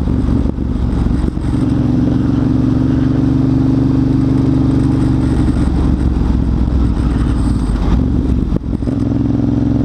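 Motorcycle engine running at a steady, even pitch, with a brief dip in level near the end.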